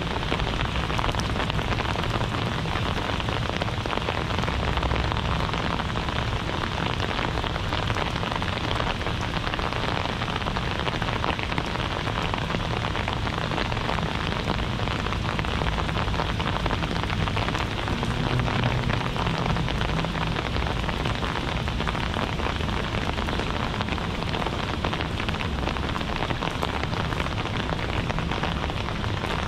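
Steady heavy rain falling and splashing on hard surfaces, with a low rumble underneath.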